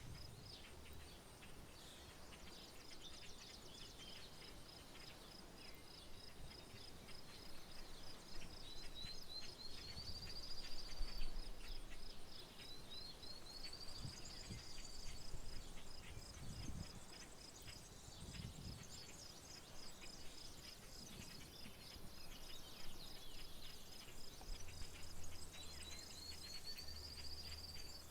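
Outdoor nature ambience: a high, evenly pulsing trill runs throughout, and a bird gives a rising, slurred call three times. Low rumbles come and go underneath.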